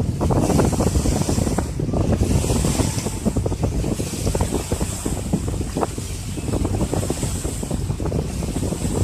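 Wind buffeting the microphone on a moving motorboat at sea, over the rush of water along the hull; a loud, steady rumble.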